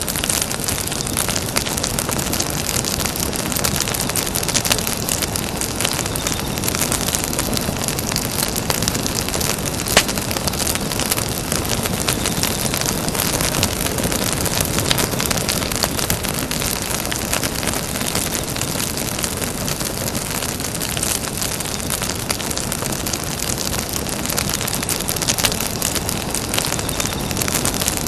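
Wood campfire crackling steadily, a dense stream of small snaps and pops, with one sharper pop about ten seconds in.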